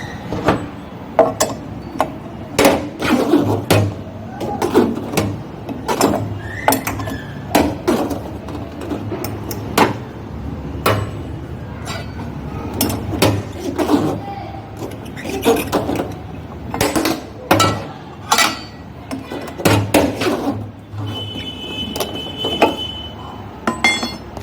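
Irregular metal clanks and knocks of hand-tool work on a front-loading washing machine, with a brief high squeal near the end.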